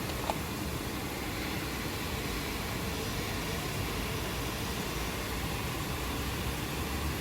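Steady rain falling, an even hiss with a low rumble underneath and no change in level. One short tick stands out about a third of a second in.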